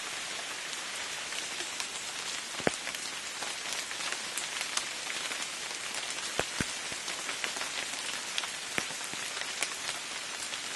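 Rain falling steadily, an even hiss with many separate drops tapping close by, a few of them sharper and louder.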